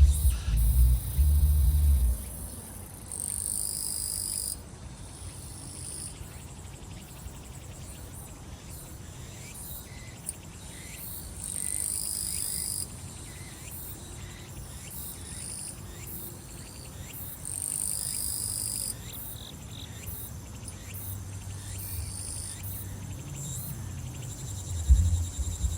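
Summer grass insects and cicadas singing: a steady high trill, with a louder high buzzing phrase about a second and a half long three times. A deep thumping bass beat from nearby music comes in the first two seconds and again near the end.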